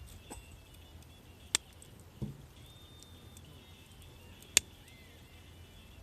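Campfire wood popping: two sharp cracks about three seconds apart, with a softer low thump between them, over faint steady high tones.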